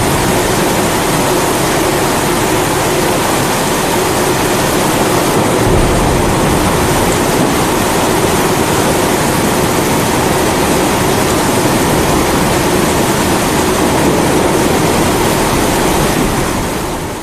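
Kerosene pressure stove (primus) burner running with a steady hiss, mixed with the dense noise of heavy rain. A deeper low rumble comes in about six seconds in and holds, and the whole mix fades out at the very end.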